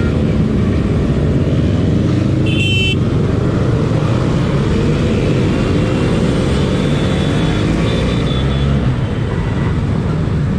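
Motorcycle engines running on the road, their pitch rising and falling as they rev, with a short horn toot about two and a half seconds in.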